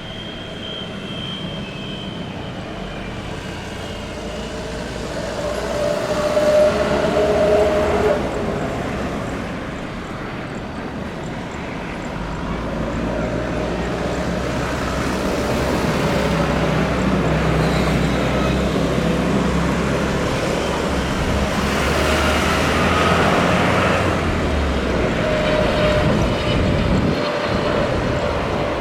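Jet airliner engines running as the plane passes close by: a steady rush with a high whine that falls in pitch over the first few seconds, swelling about six seconds in and building again from about twelve seconds.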